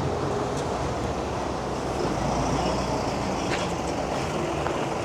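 Steady road-vehicle noise, a motor vehicle's engine and tyres running on the street.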